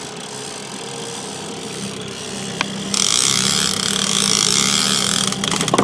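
Boat's outboard motor running steadily while trolling. About three seconds in a loud hiss joins it and holds, with a single click before it and a few sharp clicks near the end.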